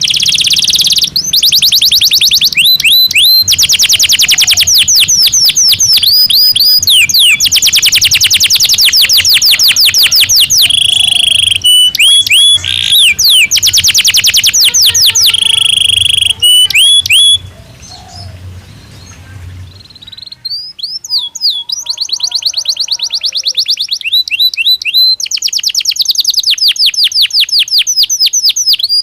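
Domestic canary singing a long song of fast trills and rolls, strings of rapidly repeated notes broken by whistled slurs. The song drops away for about three seconds a little past the middle, then picks up again.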